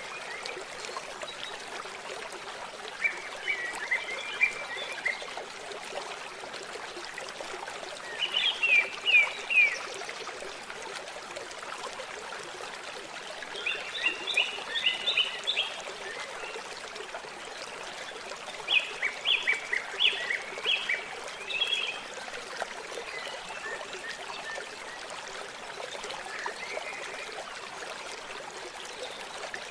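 Steady trickling, flowing water with a songbird singing short phrases of rapid notes every five seconds or so.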